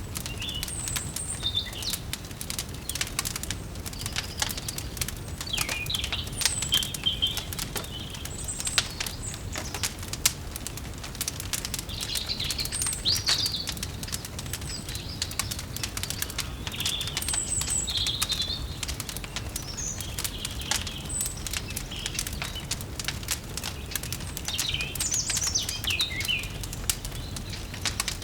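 Wood fire crackling with frequent sharp pops over a steady low rumble, while small birds chirp and twitter in short high calls throughout.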